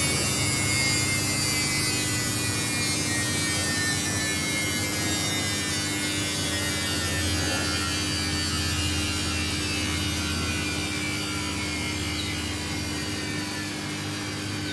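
Samsung front-load washing machine in its spin cycle: a steady motor hum and drum rumble, with a faint whine that slowly falls in pitch as the drum slows.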